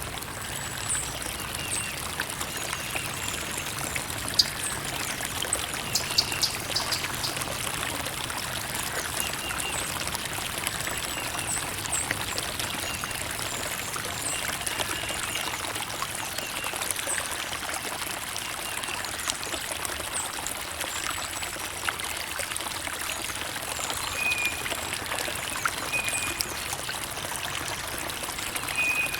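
Creek water trickling and splashing steadily, full of small splashy ticks.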